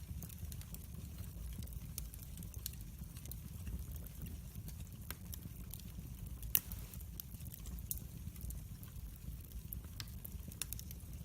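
Log fire in a fireplace crackling: scattered sharp pops and snaps over a low steady rumble, with one louder pop about six and a half seconds in.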